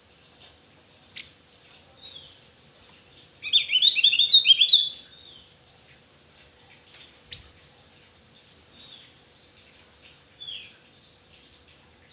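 Opior Jawa (Javan grey-throated white-eye) singing: a quick, high jumble of chirps lasting about a second and a half starting about three and a half seconds in, with soft single downslurred call notes scattered before and after.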